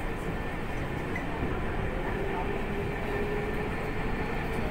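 Steady rumble of a Tokyu commuter train running, heard from inside the car, with a faint steady hum.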